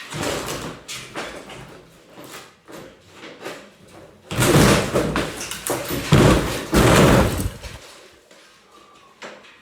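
Demolition noise: a sharp knock, then scattered knocks. A few seconds in comes a long, loud run of overlapping crashes and thuds, as a cut wall section is broken loose and comes down.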